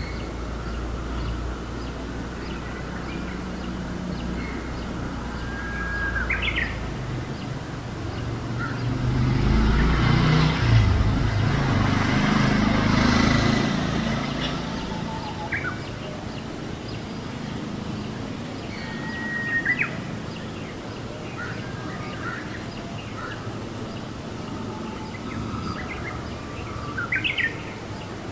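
Small bird chirping now and then, short calls and quick upward sweeps over outdoor background noise. A broad rush of noise with a low rumble swells and fades in the middle and is the loudest sound.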